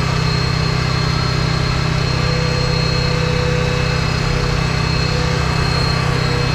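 A truck engine idling steadily, a low, even hum with no change in speed.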